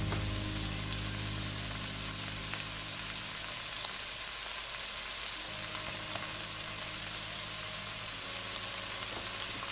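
Chicken gizzards, hearts and onions frying in a pot, just seasoned with fish sauce: a steady sizzle with scattered small crackles.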